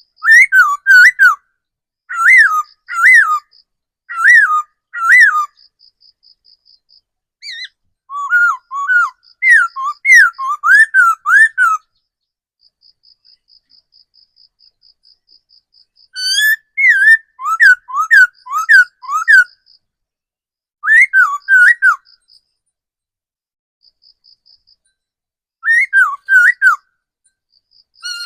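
Laughingthrush singing loud, clear whistled phrases in bouts of rapid rising-and-falling notes, broken by pauses of one to four seconds. A faint, evenly pulsed high insect trill carries on in the gaps.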